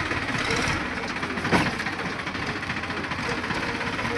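Deutz-Fahr tractor's diesel engine running steadily, with one sharp knock about a second and a half in.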